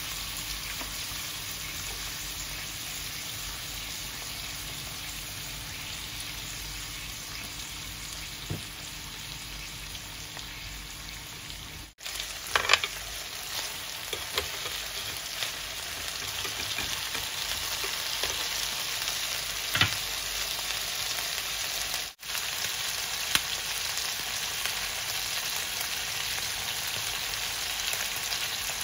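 Beef steak, meatballs and vegetables sizzling steadily in a hot grill pan, with a few sharp clicks along the way.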